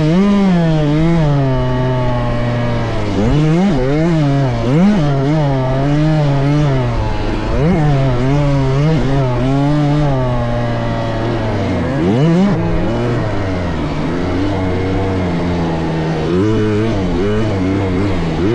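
Youth motocross dirt bike engines revving, their pitch rising and falling again and again as the throttle is opened and shut, with more than one bike heard at times.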